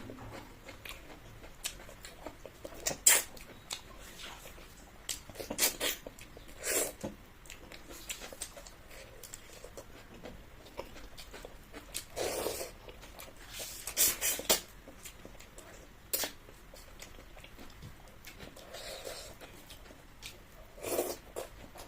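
A person chewing food close to the microphone: irregular short bursts of chewing and mouth sounds with sharp clicks, the loudest about three seconds in and again around the middle.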